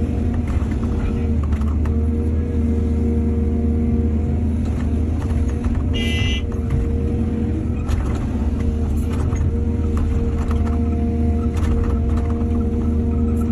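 Excavator's diesel engine running steadily, with scattered short knocks and clanks. A brief high squeal comes about six seconds in.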